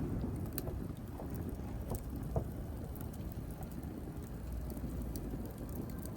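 Wood fire burning with a steady low rumble and scattered sharp crackles and pops, one louder pop about two and a half seconds in.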